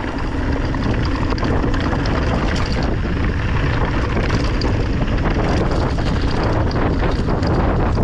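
Wind buffeting the microphone during a fast downhill ride on a rough track, with tyres rolling over gravel and many small clicks and rattles.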